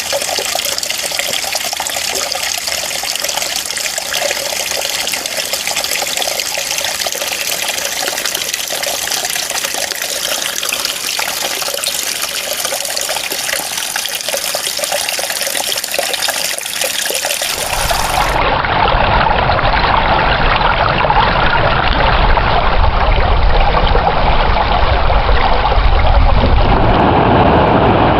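Running water trickling and splashing steadily; about 17 seconds in it switches abruptly to a louder, deeper rush of water with a low rumble.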